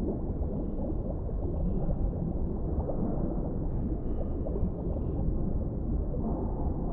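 Underwater deep-sea ambience: a steady, low, muffled rumble of water with no distinct events.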